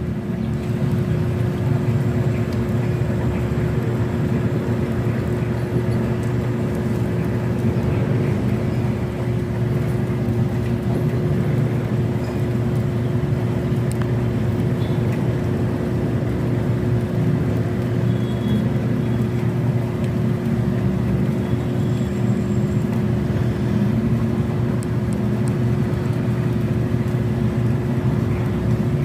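Steady low mechanical rumble with a constant hum above it, unchanging throughout, like a running engine or motor.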